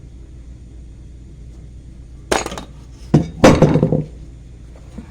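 Metallic clinks and knocks as the freshly broken-out aluminium pulley casting is handled: one sharp clink a little over two seconds in, then a quick cluster of knocks and clinks with a brief ring between about three and four seconds in.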